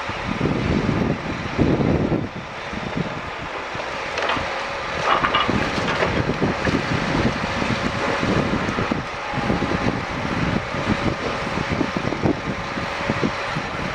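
Scania G440 timber truck's 13-litre six-cylinder diesel running steadily, driving the hydraulics while the load of timber is unloaded, with a faint steady whine over the engine.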